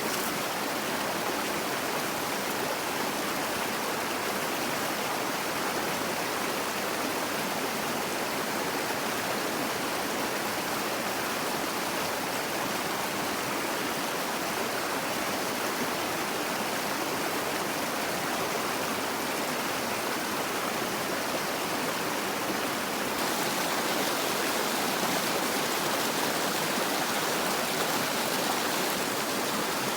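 Steady rushing noise of running water, with no distinct events; it turns slightly louder and brighter about 23 seconds in.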